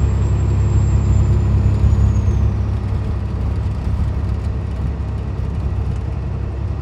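Peterbilt 379 truck's 550 hp Cat C-15 diesel running steadily at highway speed, a constant low drone with road noise. A faint high whine fades out about two and a half seconds in.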